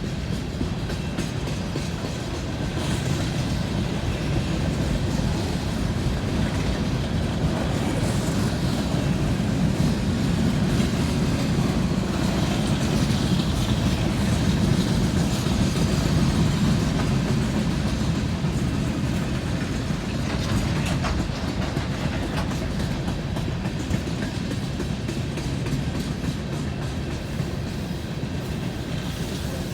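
Freight cars of a long coal train rolling past, wheels clicking over the rail joints above a steady rumble, which swells a little midway.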